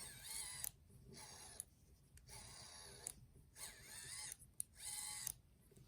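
Futaba BLS255HV helicopter cyclic servo being back-driven by hand while unpowered: a faint gear-train whirr in about five short bursts, its pitch wavering with the turning speed. It turns smoothly with no notchiness, a sign the gears are undamaged.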